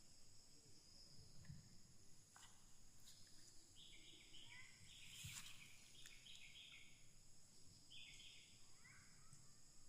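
Faint outdoor ambience of a steady, high insect drone, with a bird calling in short repeated phrases through the middle and near the end, and a few soft clicks.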